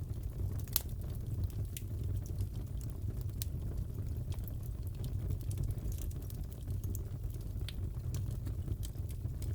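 Crackling wood fire in a fireplace: a steady low rumble of burning with scattered sharp pops and crackles, the loudest about a second in.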